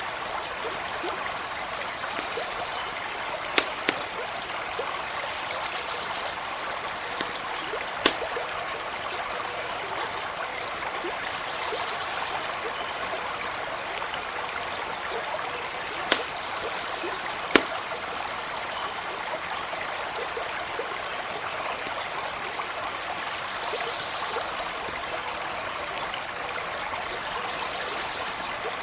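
A stream running steadily, with a handful of sharp pops from a crackling campfire standing out above the water.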